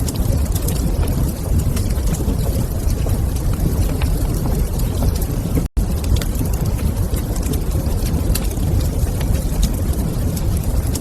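Wood fire burning in a fireplace: a steady low rumble with frequent small crackles and pops. The sound drops out for an instant just past halfway.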